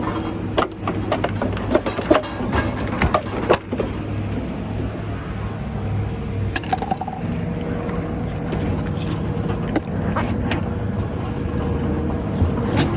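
A scrap yard crane's engine running loudly and steadily close by, with sharp metal clanks and knocks of scrap being handled, most of them in the first few seconds.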